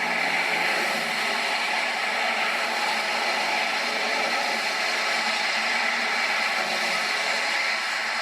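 Airbus A340 jet engines running, a steady, even rushing noise with no change in level.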